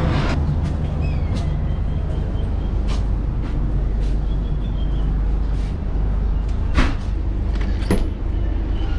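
Railway station background noise: a steady low rumble with scattered clicks and knocks, the sharpest about seven seconds in and again about eight seconds in.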